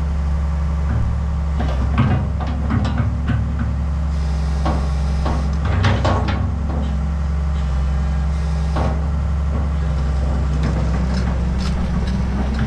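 Komatsu PC200LC hydraulic excavator's diesel engine running steadily, with scattered knocks and clanks in clusters about two to three seconds in and again around five to six seconds in.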